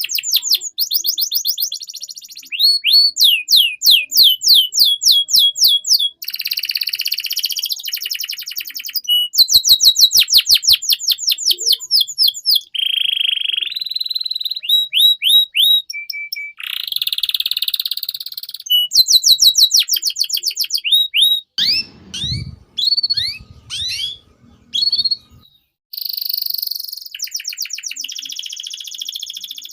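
Domestic canary singing a long, loud song of rapid repeated phrases: fast trills of notes that fall sharply in pitch, buzzy rolls and short whistles, moving to a new phrase every second or two.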